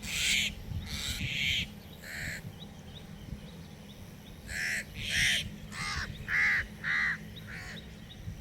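Crows cawing again and again, about nine separate caws spaced irregularly, the first ones harsh and the later ones clearer. These are alarm calls from birds mobbing a cat that has come near their nests.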